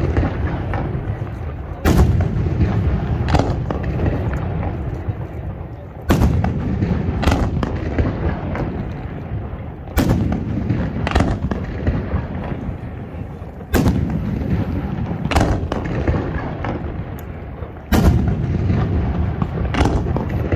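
Aerial firework shells bursting: five heavy booms about four seconds apart, each followed by a long rolling rumble, with smaller crackling reports in between.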